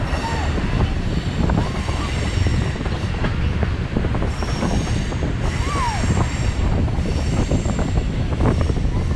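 Passenger train running on the rails: a steady low rumble with rattling and knocking, and wheels squealing. The squeal comes as a few short gliding squeals and thin high whines that come and go.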